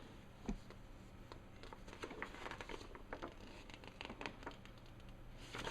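Faint handling noise of plastic model-kit parts and a paper manual being moved about: scattered light clicks and taps, with a slightly louder bump about half a second in.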